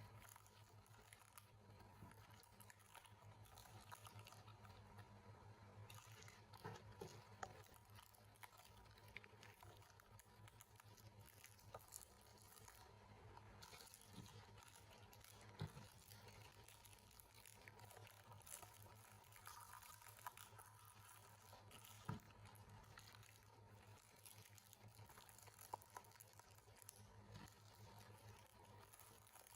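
Near silence: room tone with a steady low hum and faint scattered clicks and taps.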